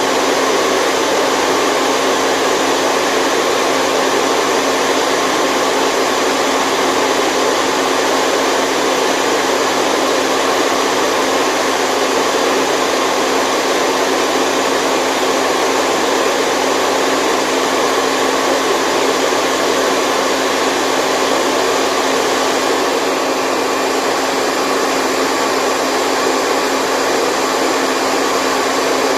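Steady white noise for infant sleep: a continuous rushing hiss with no breaks or rhythm, carrying a few faint steady tones like a small blower motor. The upper hiss thins slightly about three quarters of the way through.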